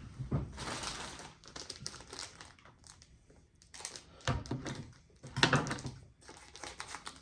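Plastic tackle packaging crinkling and rustling as it is handled and opened, in irregular bursts with short pauses between.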